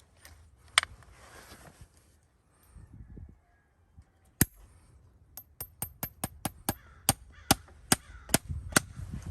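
Farrier's hammer striking metal: a single blow, a pause, then a quick run of about a dozen ringing taps, some three a second, with soft low thuds of the horse shifting in between.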